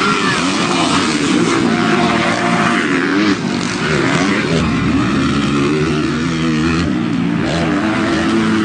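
Several dirt bike engines revving, their pitch rising and falling over and over as the riders work the throttles.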